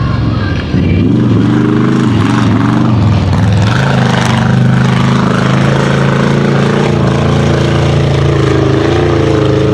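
Mega truck engine running hard at high revs: the pitch dips and climbs several times in the first few seconds as the throttle is worked, then holds steady at full power.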